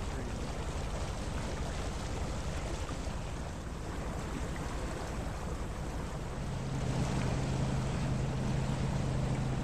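A sailboat's engine running under way, a steady low hum that grows louder about six and a half seconds in, over water rushing past the hull and wind on the microphone.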